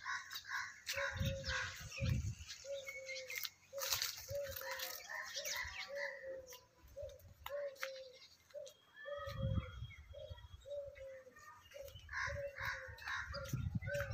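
Birds calling: one repeats a short, low note about one and a half times a second, over scattered higher chirps from other birds. Bursts of low rumble come in a few times.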